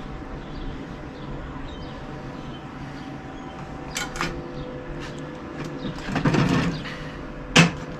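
A steady electrical hum, with a sharp clank about four seconds in, a short rustle and clatter a little after six seconds, and another sharp clank near the end, as metal gear is handled.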